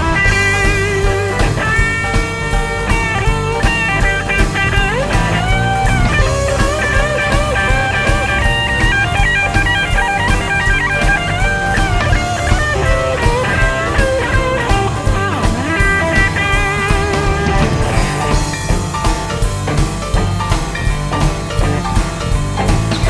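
Live rock band's instrumental break: an electric guitar solo with bent, gliding notes over a steady drum beat.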